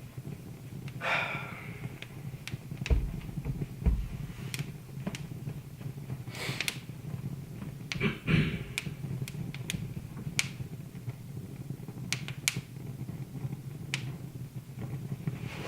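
Wood fire crackling in a fireplace: irregular sharp pops and snaps over a steady low hum, with two dull low thuds about three and four seconds in.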